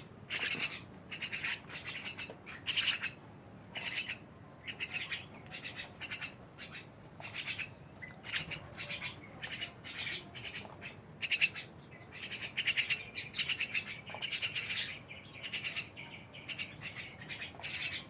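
Jalak birds (Asian starlings) chattering: a constant string of short, harsh, rasping squawks and chirps, one burst after another with brief gaps.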